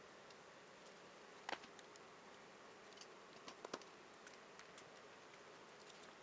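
Near silence: a steady faint hiss broken by a few light clicks, one about a second and a half in and a small cluster around three and a half seconds.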